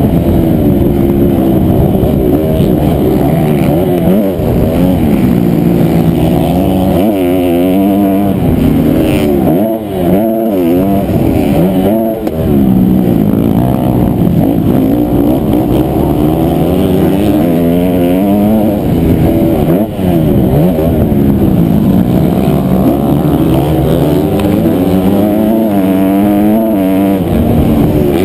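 Honda CRF250R four-stroke single-cylinder motocross engine revving hard, its pitch climbing and falling over and over through the gears. The throttle snaps shut briefly a few times.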